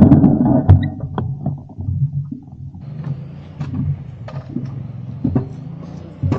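Motorcycle engine idling steadily, with scattered knocks and rustles as the rider handles gear on the bike.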